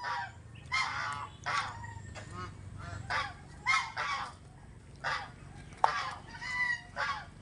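Birds calling over and over in short, pitched calls, roughly one or two a second.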